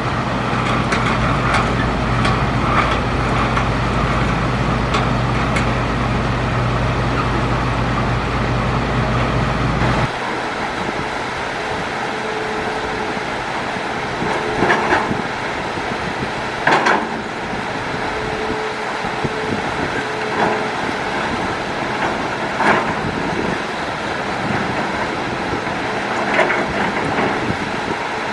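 Hitachi Zaxis excavator's diesel engine running steadily with a heavy low rumble. About a third of the way in the sound changes abruptly to a lighter working rumble, broken by several sharp knocks.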